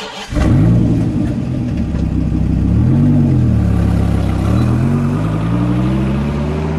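Dodge Viper's V10 engine as the car pulls away and accelerates: the engine note rises and dips about three seconds in, then climbs steadily.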